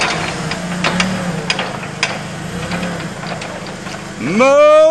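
A steady low engine-like hum with a few scattered clicks and knocks. Near the end, a loud drawn-out wail or call rises sharply in pitch and is held.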